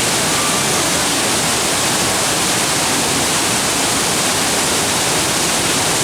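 Loud, steady rushing water, like a waterfall or fast stream, with no break or change.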